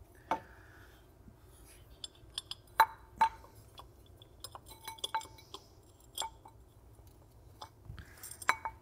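Light metallic clinks and taps as a ribbed metal water pump pulley and its bolts are handled and fitted onto the pump hub, with the loudest two clinks close together about three seconds in.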